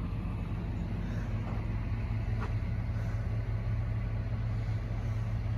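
An engine idling steadily: an even, unchanging hum.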